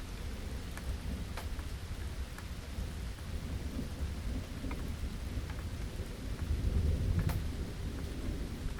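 Steady rain, with a constant low rumble of thunder that swells about two-thirds of the way through. Scattered individual drops tick sharply over the hiss of the rain.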